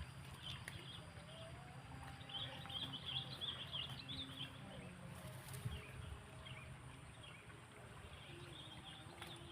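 Birds twittering in short bursts of high chirps, busiest in the first half and again near the end, over a steady low outdoor rumble.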